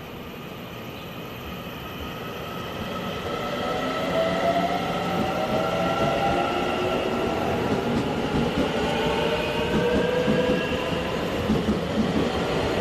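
A Taiwan Railway train moving through the station, growing louder over the first four seconds and then staying loud, with a rumble under several whining tones that glide slowly in pitch.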